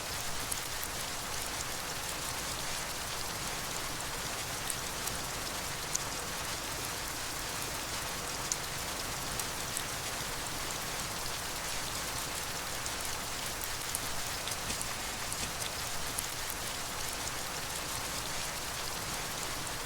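Steady rain: an even hiss of falling rain with many small, sharp drop ticks scattered through it.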